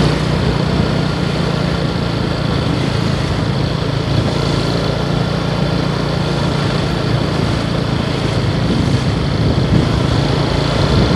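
Motorcycle engine running steadily under way, a constant low drone beneath a steady rushing noise.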